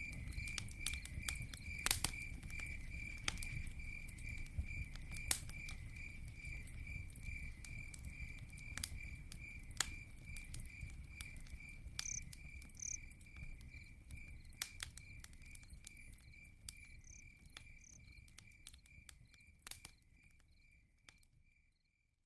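Campfire crackling with sharp pops over a low rumble, while a cricket chirps steadily in an even pulsing rhythm. Everything fades out near the end.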